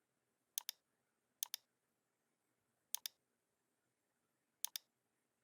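Computer mouse button clicking four times, each a quick pair of sharp clicks.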